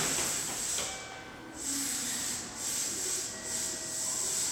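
Steady hissing noise from a Kintetsu 9820 series train standing at an underground platform, dipping briefly about a second in.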